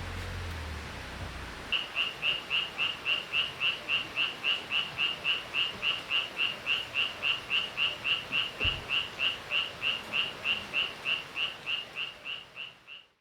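Cricket chirping: a steady run of short, evenly spaced high chirps, about three a second. It starts about two seconds in and fades out at the end.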